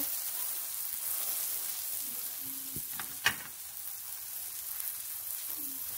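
A folded cheese omelette sizzling as it fries in oil in a non-stick pan: a steady hiss, with one sharp tap a little past halfway.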